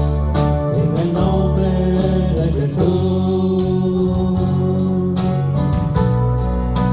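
Live church worship band music: held chords over a steady bass line, with regular drum and cymbal hits.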